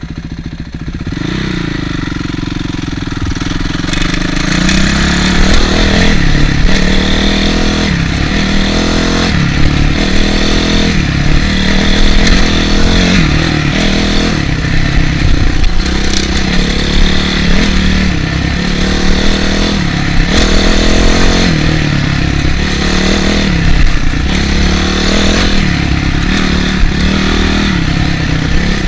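Honda CRF450R's single-cylinder four-stroke motocross engine, running steadily at first. A few seconds in it pulls away, and the revs rise and fall again and again as the bike is ridden along the trail.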